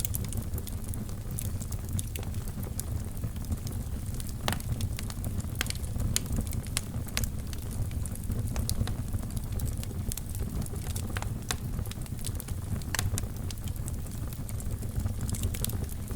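Wood fire burning in a fireplace: a steady low rumble of the flames with frequent irregular crackles and sharp pops, a few standing out louder.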